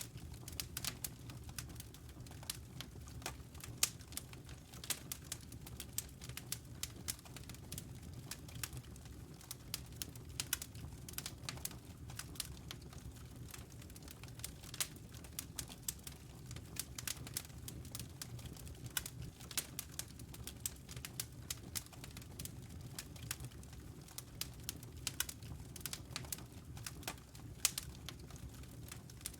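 Wood fire in a fireplace crackling: irregular sharp pops and snaps of burning logs over a low, steady rumble.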